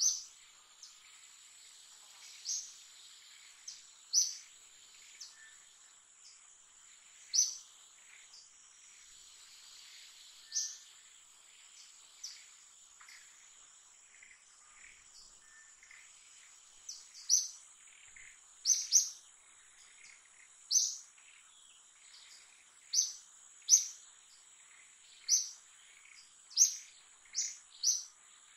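Short, sharp, high chirps of a bird, repeating every second or two and coming more often in the second half, over a steady high-pitched insect whine.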